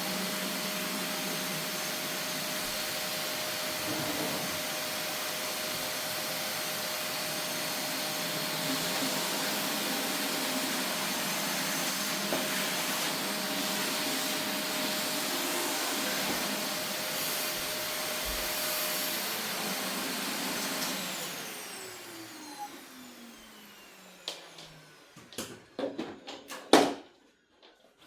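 Vacuum cleaner running steadily, then switched off about two-thirds of the way through, its motor whine falling as it spins down. A few clicks and knocks follow, the loudest shortly before the end.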